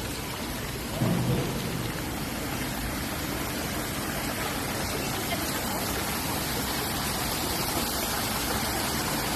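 Waterfall: a steady rush of falling water, with a brief low rumble about a second in.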